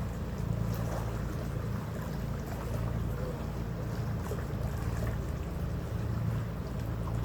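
Steady low drone of a harbour ferry's engines heard on board, under a continuous rushing hiss of wind and water.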